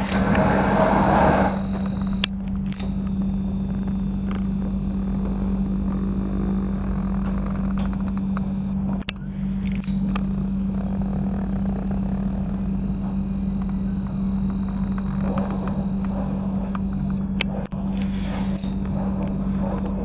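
A steady engine hum with a constant low drone, louder in the first second and a half, broken by a few sharp clicks.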